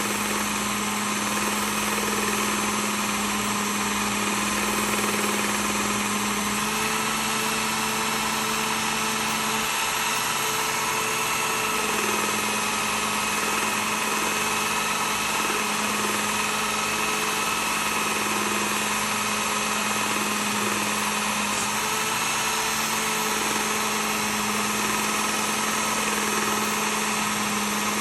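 Work Sharp Ken Onion Elite belt sharpener with grinding attachment running steadily while a gutting blade is stropped with compound on its belt: a continuous motor hum with belt hiss. The hum dips slightly in pitch about six seconds in and comes back up around twelve seconds.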